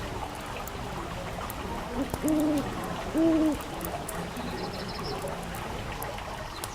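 An owl hooting twice, two short low hoots about a second apart, over the scattered light crackle of a wood fire. A brief high chirping trill follows near the end.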